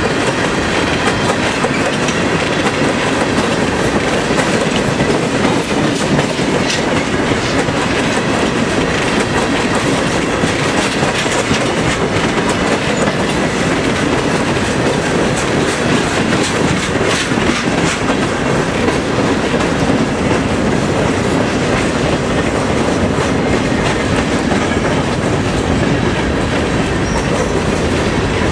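Train cars rolling steadily past at close range, steel wheels clicking and clattering over the rail joints in an unbroken, loud stream.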